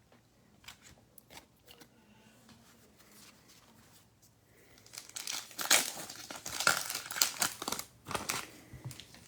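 A 2022 Diamond Kings baseball card pack's wrapper being torn open and crinkled, loud for about three seconds in the second half, after a few faint clicks.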